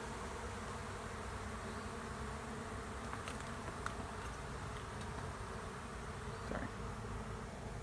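Honey bee swarm buzzing steadily at close range, a dense hum of many bees as the swarm moves into an empty hive.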